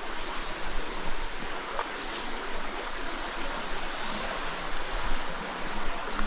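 Stream water running steadily over rocks, a continuous rushing hiss.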